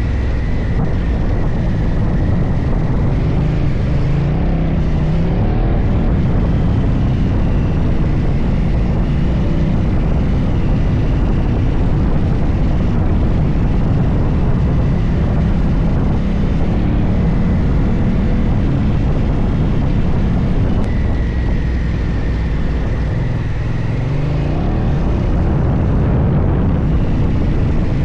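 Adventure motorcycle engine running under way, its revs rising and falling a few times.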